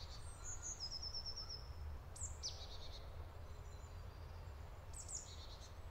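Small songbirds singing faintly: a quick run of short high notes near the start, then high descending calls about two seconds in and again near the end, over a steady low rumble.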